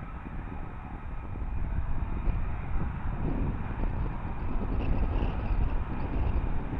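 F-35B Lightning jet engine rumbling in the distance, growing louder about two seconds in.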